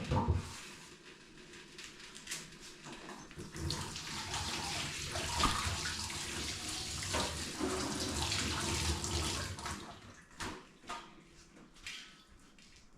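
Water running from a tap into a sink for about six seconds, with splashing and small clicks. A sharp knock comes right at the start.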